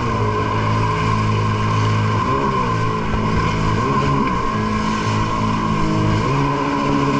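Sea-Doo Spark jet ski's three-cylinder engine running under way, its pitch dipping and climbing again a few times as the throttle is eased and reopened, over a steady high whine.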